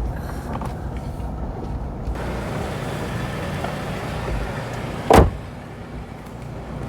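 Car sound with a steady low rumble, then a single loud thump of a car door slamming shut about five seconds in.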